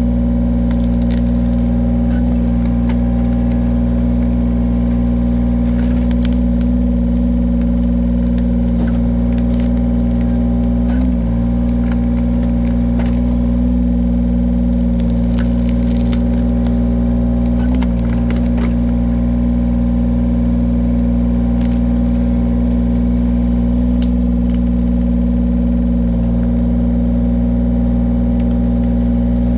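Engine of a firewood-splitting machine running steadily, its pitch dipping briefly twice, about 11 and 18 seconds in, with faint scattered knocks over the hum.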